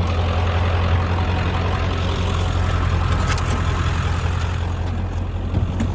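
Ford 7.3-litre Power Stroke turbodiesel V8 running with a steady low drone.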